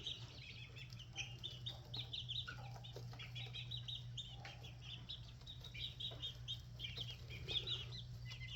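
A group of six-week-old red junglefowl chicks peeping, with many short, high peeps overlapping in quick succession.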